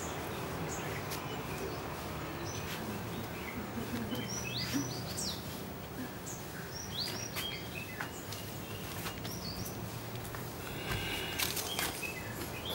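Small birds chirping now and then, short high calls coming in clusters, over a steady outdoor background hiss.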